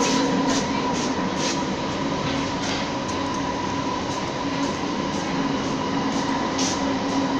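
Onboard running noise of a Bombardier Innovia ART 200 light-rail train in motion: a steady rush with a constant hum and whine, and light clicks and rattles every so often.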